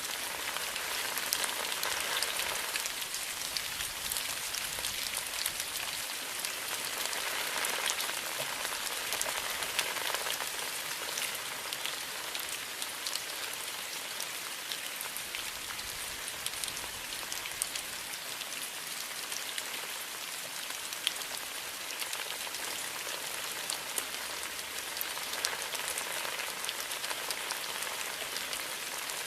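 Steady rain falling on a bamboo forest, a dense patter of raindrops with fine individual drips, swelling and easing slightly.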